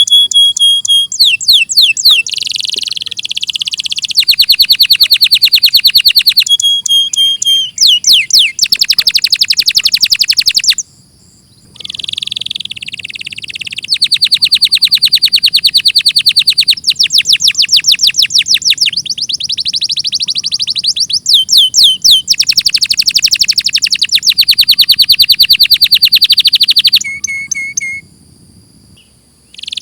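Domestic canary singing a long, loud song made of fast trills of rapidly repeated notes, changing from one trill to the next every second or two, with a short pause about eleven seconds in and another near the end.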